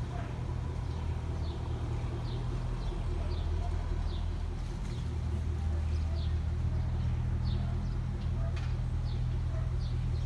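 A bird repeating short, high, falling chirps roughly once a second over a steady low rumble.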